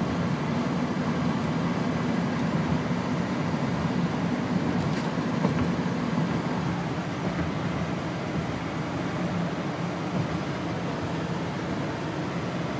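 Steady rumble of a moving car: road and engine noise with no sudden events.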